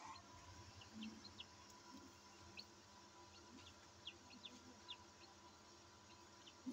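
Newly hatched Australorp chicks peeping faintly: about ten short, high chirps that each drop quickly in pitch, scattered at uneven intervals. Underneath runs the steady hum of the incubator's fan.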